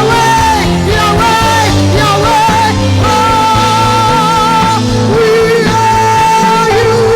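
Worship song: a singer holding long, wavering notes over a full band accompaniment.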